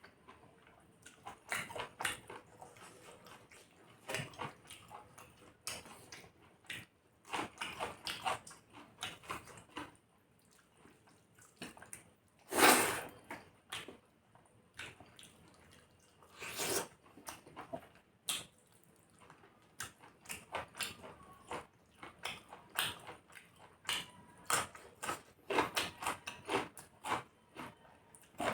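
Close-miked eating sounds of chicken curry and rice: irregular wet chewing and lip smacks, with one louder noise about halfway through.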